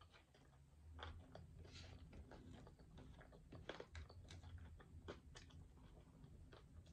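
Close-miked chewing of a mouthful of pizza: quiet, irregular wet mouth clicks and smacks, several a second.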